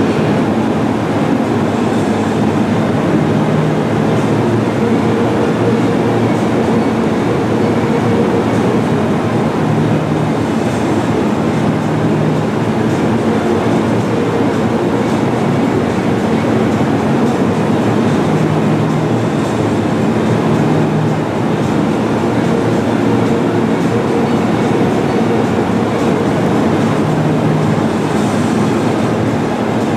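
Steady rumble of a train running on rails, with low hums that come and go.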